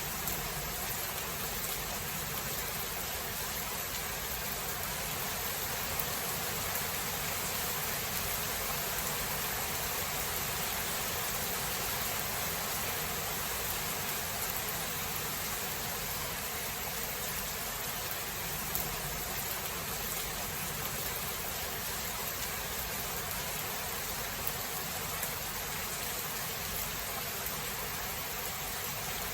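Steady rain falling, an even hiss with no thunder clap.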